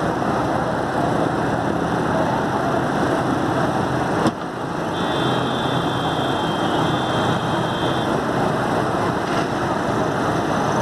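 Heavy rain with road traffic: a dense, steady wash of noise with vehicle engines in it, broken by a sharp click about four seconds in, followed by a faint high thin tone for a few seconds.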